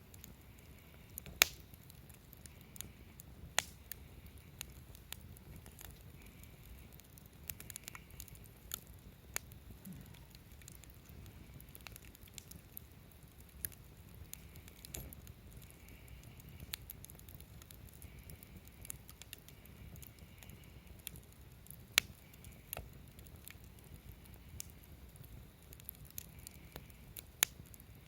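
Wood campfire in a Coleman Fire Disk fire pit crackling: irregular sharp pops and snaps over a faint low rumble of the flames. A few pops stand out much louder, one near the start and two in the second half.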